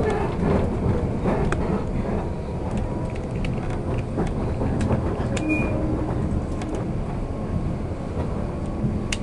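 Running noise inside the passenger car of a JNR express-type electric train (183/189 series) moving along at speed: a steady low rumble with scattered sharp clicks from the wheels and rails.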